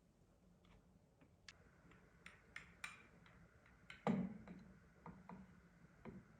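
A string of light clicks and taps, irregular, with one louder knock about four seconds in and a couple more taps after it.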